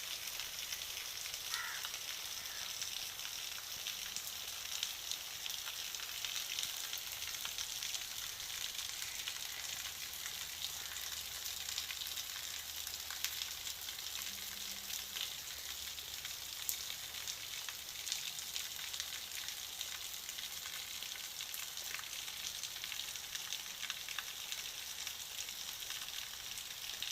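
Steady rain falling: an even hiss of many fine drops with scattered sharper drip ticks.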